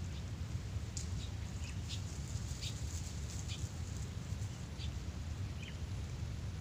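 Steady low outdoor rumble, with several short, high bird chirps scattered through.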